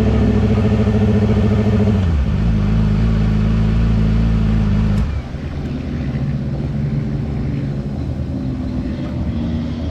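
Yamaha R6 inline-four sport bike engine running at steady revs, dropping in pitch about two seconds in, then falling quieter and lower about five seconds in as the bike slows to an uneven low-rev run.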